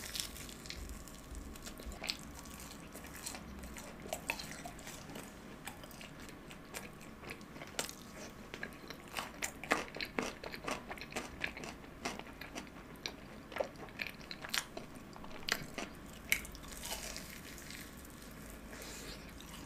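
Close-up chewing of a fried cheese ball with a crisp, chewy coating: irregular soft crunches and mouth clicks, coming thicker in the middle of the stretch.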